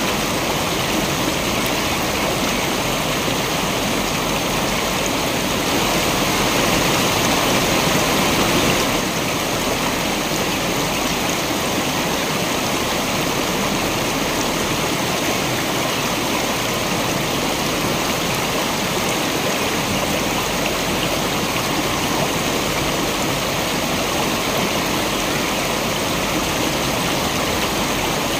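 Waterfall: steady rushing and splashing of falling water, a little louder for a few seconds about a fifth of the way in.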